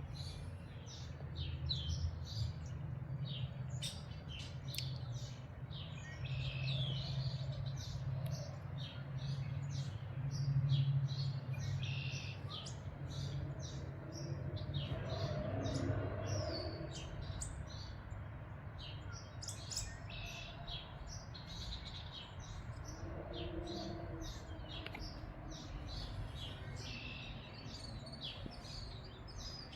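Several backyard birds chirping and singing in short, overlapping calls, over a steady low rumble.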